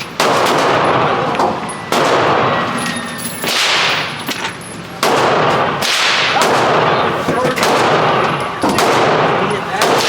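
Gunshots fired one at a time, about five of them a second or more apart, each followed by a long echoing decay.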